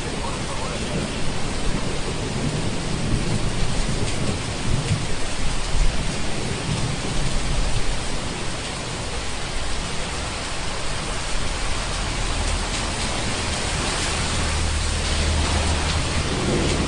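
Steady heavy rain hissing, with low rolling thunder rumbling beneath it, swelling in the first half and again near the end.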